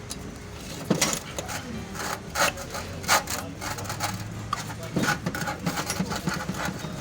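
Metal cylinder-head valves clinking and tapping against each other and other metal parts as they are handled, a few separate clinks and then a quicker run of small taps near the end.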